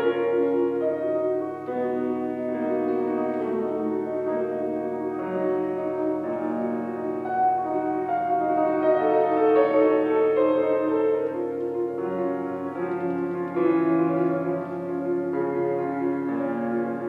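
Solo piano playing a classical piece, a steady flow of notes moving through the middle and upper register.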